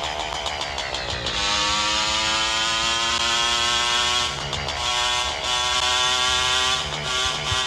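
Motorcycle engine under way, slowing down first and then pulling up through the gears. Its pitch climbs steadily, drops at a gear change about four seconds in, and climbs again.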